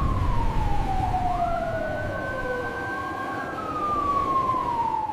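Emergency vehicle sirens wailing: two overlapping sirens slowly falling and rising in pitch, over a low rumble that is strongest about the first second.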